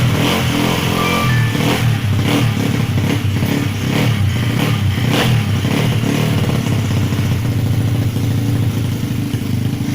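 Drag-racing motorcycle engine running steadily, the bike whose engine problem is being checked.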